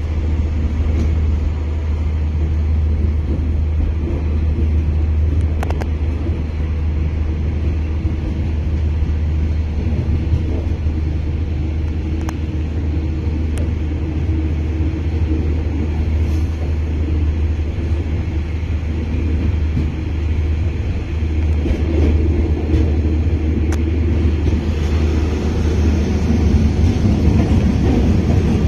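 Steady low rumble of a moving passenger train, heard from on board: wheels running on the rails, with a few faint clicks here and there.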